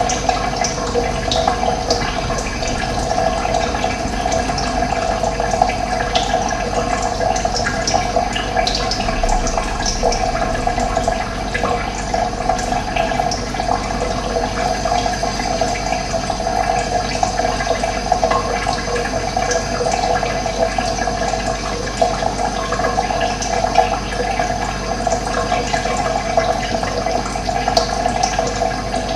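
Running water flowing steadily, a continuous rushing with small splashing ticks.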